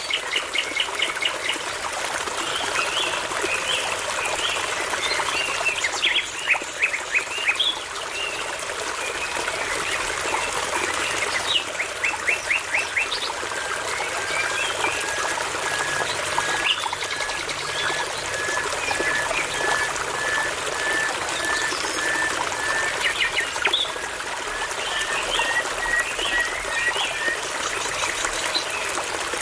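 Songbirds singing over a steady babbling brook. There are short bursts of rapid song notes, and from about halfway one bird repeats a single short whistled note slowly for more than ten seconds, rising slightly in pitch.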